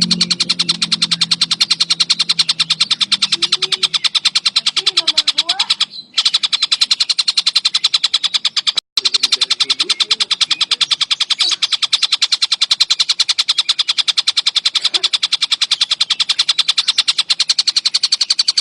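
Tengkek buto (collared kingfisher) calling in a fast, unbroken stream of short, harsh, high notes, many to the second. The stream cuts out briefly twice, once near the middle and once just after it.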